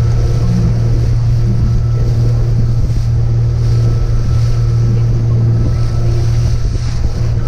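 Boat motor running steadily under way, a constant low hum, with wind rushing over the microphone and water noise from the moving hull.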